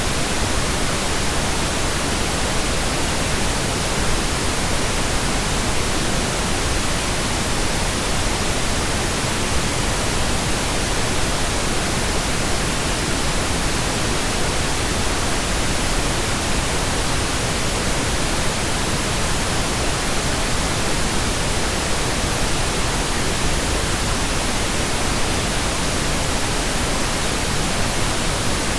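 Steady synthetic pink noise generated in Audacity: an even, unchanging hiss spread across all pitches, without breaks or events.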